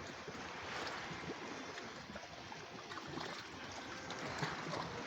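Small Black Sea waves washing at the shoreline: a steady wash of moving water with small scattered splashes and clicks.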